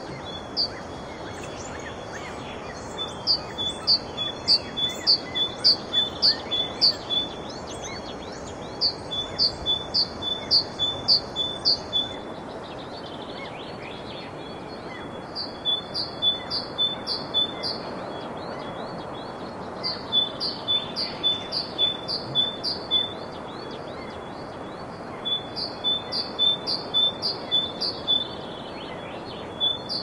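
A bird singing phrases of short, high repeated notes, about two to three notes a second, each phrase lasting a few seconds with short pauses between, over a steady hiss of background noise.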